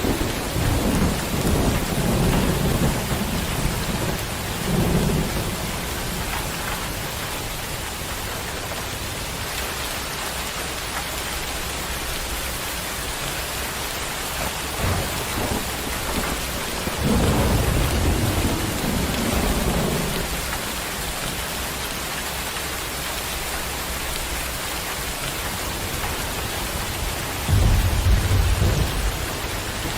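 Steady heavy rain with rolling thunder. Low rumbles come at the start, again just past the middle, and a stronger one near the end.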